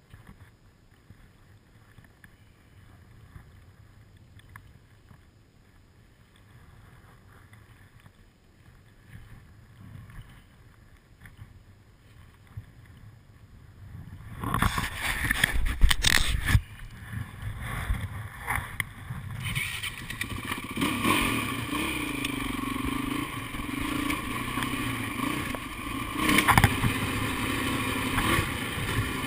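Dirt bike engine running as it rides a dirt trail, its pitch rising and falling with the throttle. The first half is quiet. About halfway in the sound gets loud, with several knocks and clatter, before the engine settles into a steady run.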